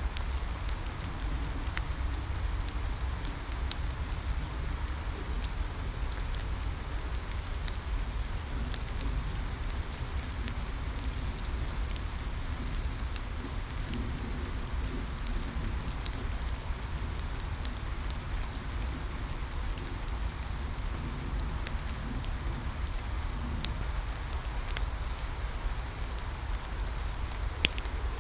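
Steady rain falling, with scattered crackles and pops from a bonfire, a couple of them sharper near the end.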